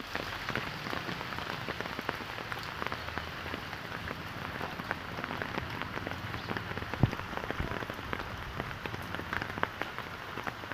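Steady rain pattering on a surface, a continuous hiss full of small drop clicks, with one louder knock about 7 seconds in.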